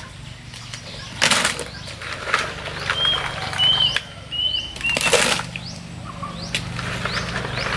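Birds: a few sharp flaps or knocks, and a short run of high chirps in the middle, over scattered faint chirps.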